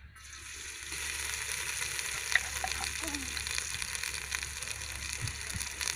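Yellow spice paste frying in a hot aluminium pot: a sizzle that starts suddenly as the paste drops in, builds over the first second and then holds steady, with one sharp click a little over two seconds in.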